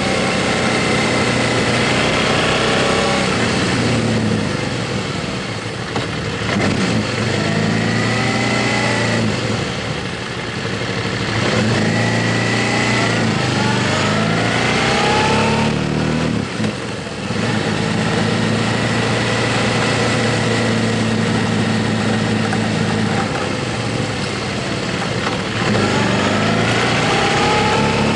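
Motorcycle engine running under way, its pitch rising again and again as it accelerates, with short drops in level between the rises, over a steady rush of wind.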